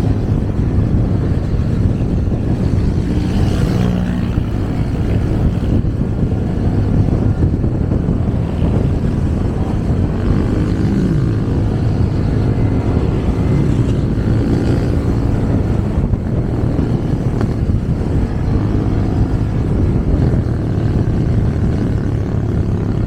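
Riding pillion on a motorcycle taxi through city traffic: the motorcycle's engine running steadily under road and wind noise, with engine pitch rising and falling a few times around the middle.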